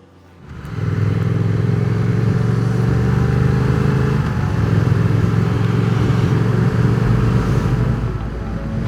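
Triumph Speed Twin 1200's parallel-twin engine running as the motorcycle is ridden, with road and wind noise. It picks up about half a second in and holds steady, and the engine note changes about four seconds in and again near the seventh second.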